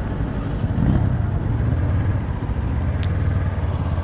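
Motorcycle engine running steadily under riding wind and road noise, as heard from the rider's own bike, with a single short tick about three seconds in.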